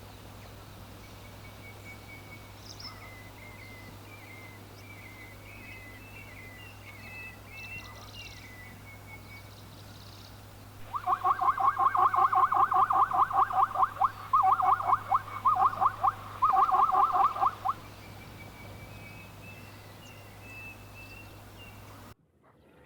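Outdoor savanna ambience with faint, scattered high bird chirps. About halfway through, a loud, very rapid pulsed animal call comes in several bursts for about seven seconds, then stops.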